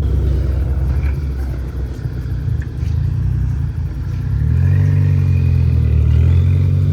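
Chrysler 300C's 5.7-litre HEMI V8 running at low speed with a deep rumble; about four and a half seconds in it gets louder and its pitch rises and falls.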